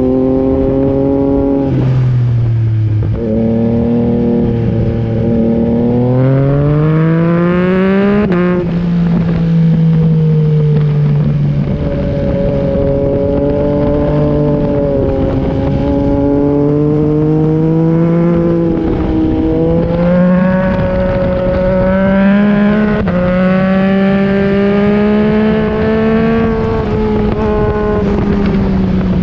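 A 2021 Yamaha MT-09's 890 cc inline-three running through an Akrapovic exhaust under hard track riding. The pitch drops about two seconds in as it slows, then climbs through the revs with a gear change near eight seconds, and stays high with brief dips at further shifts.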